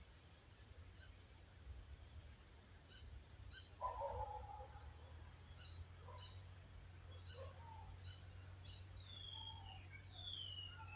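Songbirds calling faintly: many short high chirps, a lower call about four seconds in, and two falling whistles near the end. A thin steady high tone and a low hum run beneath.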